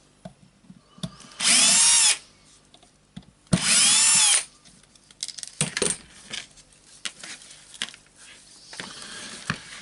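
Power screwdriver running in two short bursts, each spinning up and winding down, as it backs out small Torx screws. Light clicks and handling of small parts follow.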